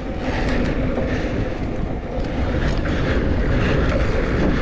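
Mountain bike riding fast downhill on a dirt trail: a steady rumble of the tyres over dirt and wind on the camera microphone, with short rattles and clicks from the bike.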